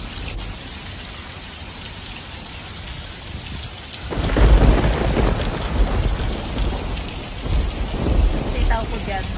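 Heavy rain falling steadily. About four seconds in, a loud, deep rumble of thunder sets in and keeps rolling in swells.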